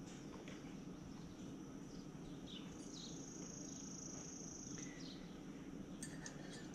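Faint background birdsong: a few short, falling chirps, with a steady high trill lasting about two seconds in the middle.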